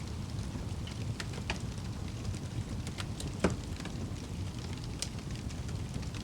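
Wood fire burning in a fireplace: a steady low rush of flames with scattered crackles and pops, the loudest a sharp pop about three and a half seconds in.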